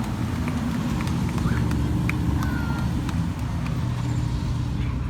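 Old cars' engines running with a steady low rumble.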